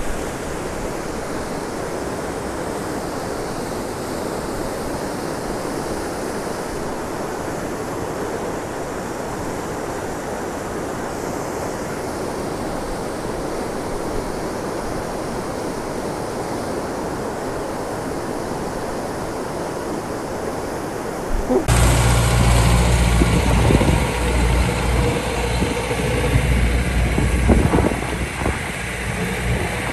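Steady rushing of fast-flowing floodwater. About three-quarters of the way through it cuts off suddenly, and a small engine is heard running.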